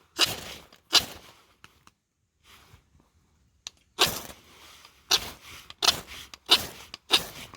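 Ferro rod being struck repeatedly to throw sparks onto tinder: seven short, sharp, hissing scrapes, two near the start, a pause of about two seconds, then five more at a quicker pace.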